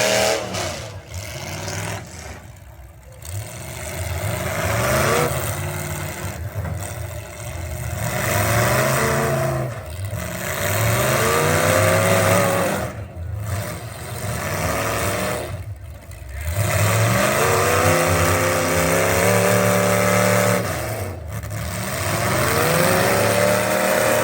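Pro truck racing engine accelerating hard again and again. The pitch climbs through the revs, drops at each lift or shift, then climbs again.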